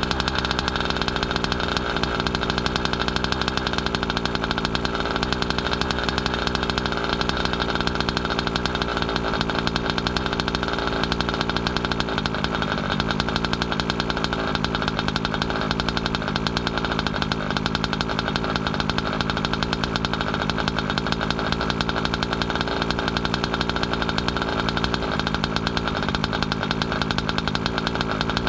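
Small two-stroke ESP gas engine for a 1/5-scale RC car running steadily at an even speed, being broken in on its third heat cycle.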